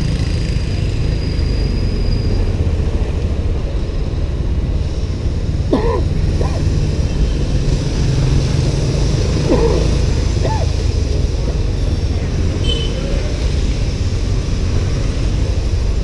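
Steady low rumble of riding a motorbike through city traffic, with road and wind noise, and a few brief pitched sounds about six and ten seconds in.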